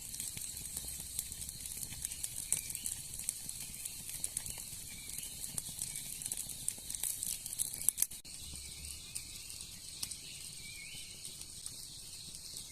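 Rain pattering steadily, a dense hiss of many small drops with scattered sharper ticks.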